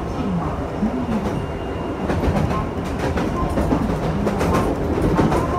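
Electric train running along the track, heard from inside the driver's cab: a steady rumble, with the wheels clicking over rail joints from about two seconds in.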